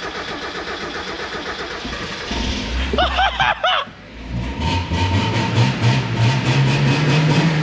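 Mazda MX-5 Mk1 four-cylinder engine being cranked on its starter motor, then catching about four seconds in and revved up and held high, on its first start after sitting unused for years. A voice cries out briefly just before it catches.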